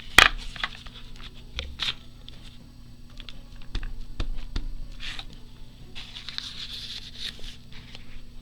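Hands handling a stamp and paper on a craft table: a sharp click about a quarter second in, then scattered light taps and short paper rustles.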